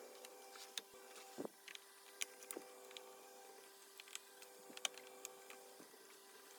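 Faint, scattered small clicks and taps of hands and tools handling a vacuum cleaner's plastic parts, over a faint steady hum.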